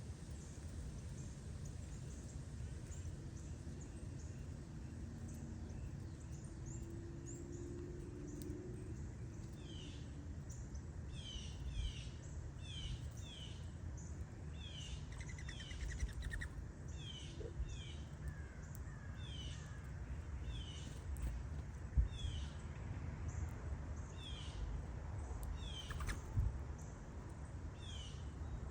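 Small songbirds chirping over and over in short falling notes, starting about a third of the way in, over a steady low outdoor rumble, with a couple of soft thumps near the end.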